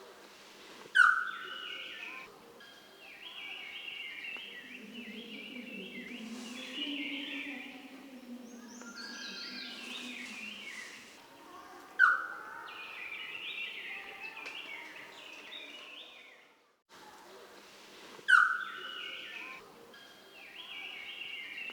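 Blue-rumped pitta calling: a short, loud note three times, about a second in, at twelve seconds and near the end, over a busy background of other forest birds chattering.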